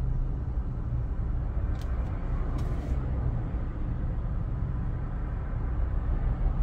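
Steady low rumble of a car on the move, engine and road noise, with a few faint clicks about two seconds in.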